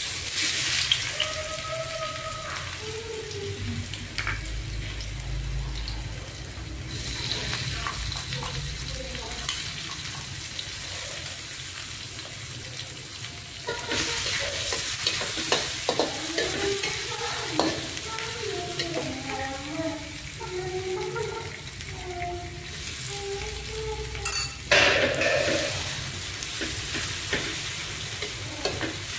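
Chopped garlic, shallot and chili sizzling in hot oil in a metal wok, stirred and scraped with a metal spatula. The sizzle surges louder at the start, again about halfway, and shortly before the end.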